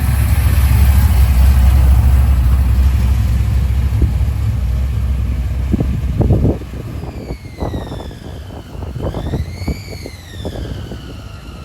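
A car engine running close by with a heavy low rumble that drops away sharply about six and a half seconds in. After that come a few scattered knocks and a thin tone that slides up and then back down.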